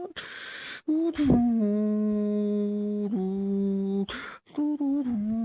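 A person humming the melody without words, with one long low note held for about three seconds. Short breathy hisses come right at the start and again about four seconds in.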